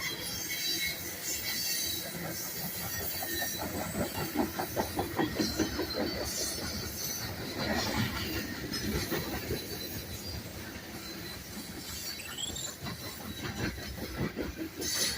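Freight train of tank cars rolling past, wheels clicking rhythmically over rail joints, with a brief high wheel squeal late on.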